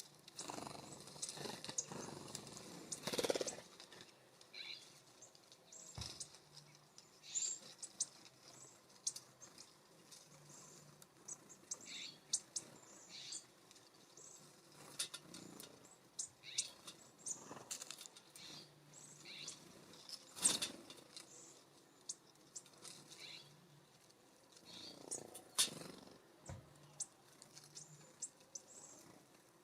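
Small songbirds giving short, high chirps and call notes, scattered irregularly. A few brief scuffling noises and a sharp click are mixed in, the loudest about three seconds in and about twenty seconds in.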